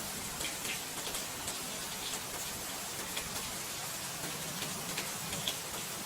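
Steady rain falling, an even hiss with scattered sharper drops tapping.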